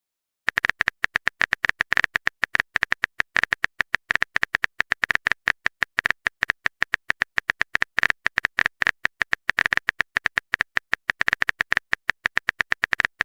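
Typing sound effect: a fast, even run of sharp clicks, several a second, starting about half a second in and going on without pause.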